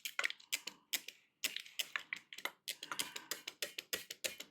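Quick repeated scrubbing strokes, about four a second, as the gummy residue of a rotted foam surround is rubbed off the edge of a subwoofer driver's cone and frame.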